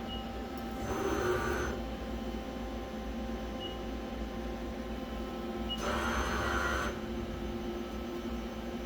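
Mori Seiki MV40M CNC vertical machining center standing powered up with a steady hum, interrupted twice by a whirring burst about a second long, about a second in and again about six seconds in. A few short high beeps are heard near the start and about four seconds in.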